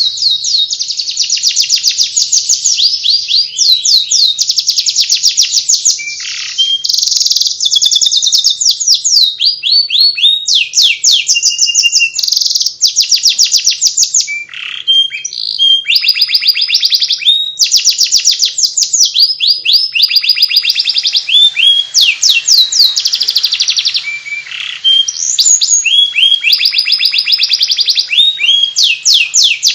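Domestic canary singing continuously in fast, high 'ngeriwik' twitter: rapid trills and runs of quick repeated chirps, broken by short pauses.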